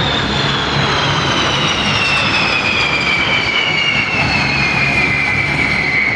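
Boeing B-52H Stratofortress's eight TF33 turbofan engines passing low overhead: a loud steady jet rush with a high whine that falls in pitch as the bomber goes by.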